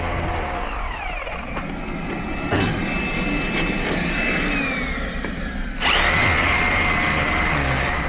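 A motor running with a steady low hum. Its whine holds level and then drops in pitch, and about six seconds in the sound suddenly gets louder with a new steady whine.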